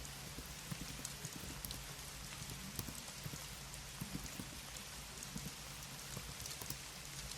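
Computer keyboard typing: irregular soft key clicks, several a second, over a steady background hiss.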